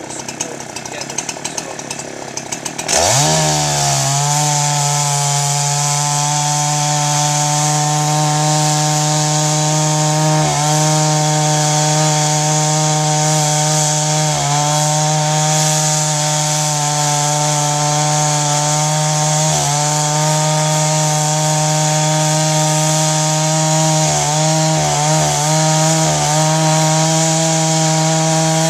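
Chainsaw mounted in a Granberg G55 chainsaw mill, running quietly at first, then revved up about three seconds in and held at full throttle as it rips lengthwise through a log. The pitch dips briefly a few times under the load of the cut.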